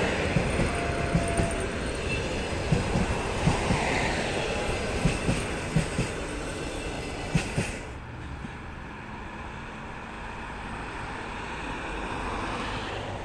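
Passenger train coaches rolling past at speed, the wheels knocking over rail joints in a run of irregular clickety-clack beats over a steady rolling rumble. The knocking stops about eight seconds in, and a quieter, duller steady rumble follows, swelling slightly near the end.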